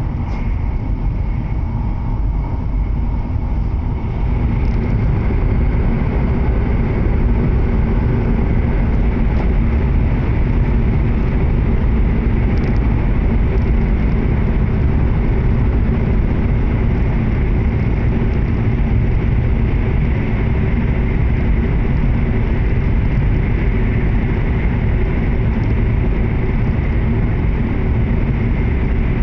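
Running noise heard inside a W7 series Shinkansen car at speed: a steady low rumble with a faint steady whine above it, getting a little louder about four seconds in.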